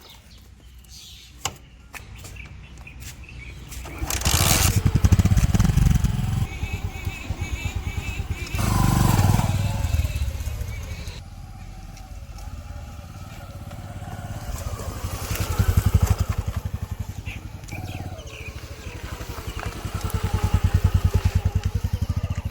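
Heavy diesel engine chugging with a fast even beat, revving up and dropping back several times under load.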